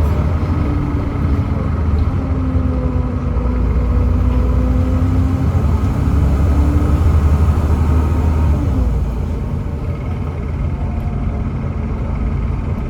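Volvo B7TL bus's Volvo D7C 7.3-litre diesel engine running under way: a loud low rumble with a whine over it. About nine seconds in, the whine glides down and the engine note quietens.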